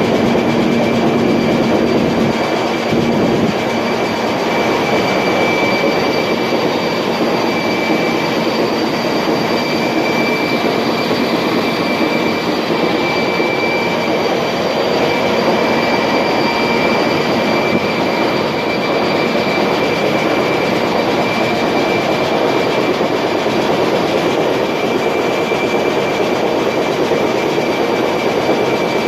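Loud, steady ship engine-room machinery noise, with constant high whining tones over a dense rumble.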